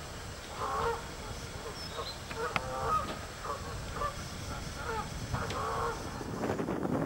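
Geese honking, a series of short calls about once a second.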